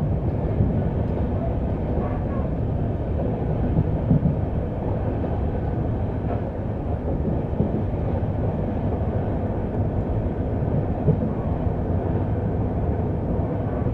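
Passenger train running along the track, heard from aboard: a steady low rumble of wheels on rail, with a couple of louder knocks about four seconds in and again near the end.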